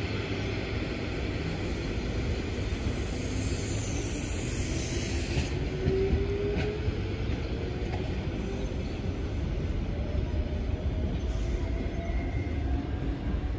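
Sydney electric double-deck suburban trains moving through a station: a steady low rumble of wheels and traction, with an electric motor whine rising in pitch as a train accelerates. A brief high hiss comes about four to five seconds in.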